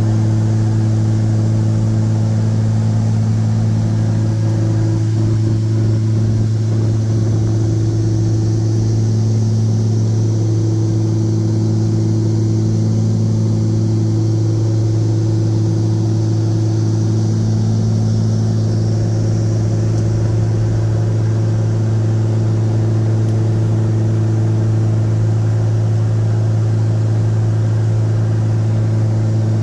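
Aircraft engine droning steadily at an unchanging pitch: a strong low hum with fainter overtones above it.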